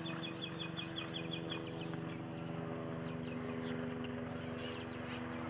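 A bird calling in a rapid run of short, high chirps, about six a second, for the first two seconds, over a steady low hum.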